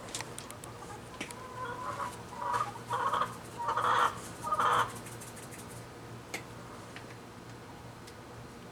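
Hen clucking: a run of about five short calls over a few seconds.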